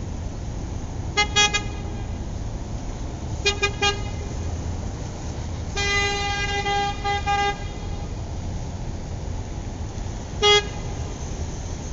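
Car horn tooting in short groups of beeps and one longer broken honk, always at the same pitch, over a steady low rumble of engines or traffic.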